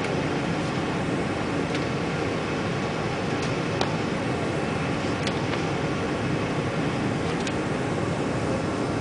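Steady rushing cabin noise inside an airliner on arrival, with a few faint clicks scattered through it.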